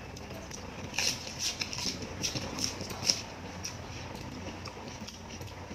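Close-miked chewing: a cluster of crisp, wet mouth clicks and crunches between about one and three seconds in, over a steady low background hum.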